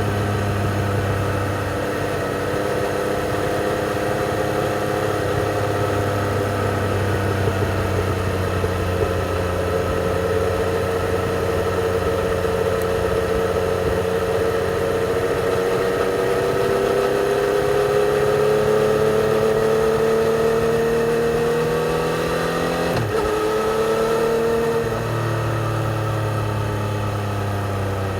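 2020 Yamaha XSR 900's three-cylinder engine with stock exhaust, heard from the rider's seat while riding. Its note rises slowly and steadily under acceleration through the middle, then dips sharply in a quick gear change about four-fifths of the way through before pulling again.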